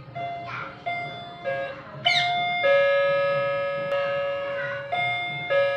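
A melody of bell-like chiming notes, each struck sharply and then ringing out and fading slowly, about seven notes in all. A short rising chirp comes just after the first note and another about two seconds in.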